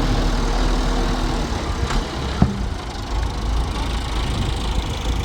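Tractor engine running steadily with a heavy low rumble, and a single sharp knock about two and a half seconds in.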